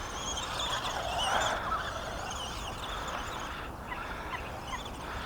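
Birds chirping and calling, many short wavering calls, with a brief swell of rushing noise about a second in.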